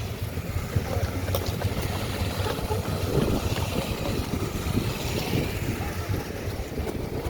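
A steady low rumble like a motor vehicle's engine running, with faint voices in the background.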